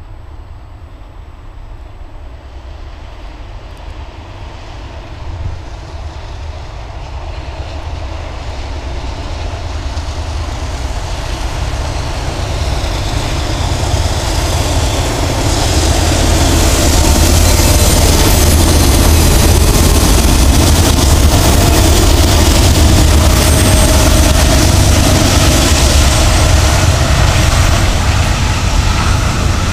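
Norfolk Southern diesel locomotives hauling a loaded coal train, growing steadily louder over about fifteen seconds as they approach, then running loud and steady as the locomotives and loaded coal hoppers pass close by.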